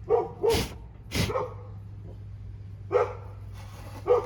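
A dog barking: three quick barks in a row, then two more single barks spaced apart later on.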